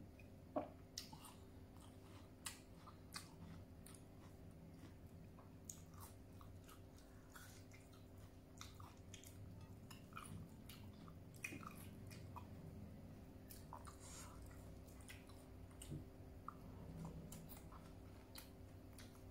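Faint chewing with many small, scattered mouth clicks and smacks: a person eating fish and rice by hand.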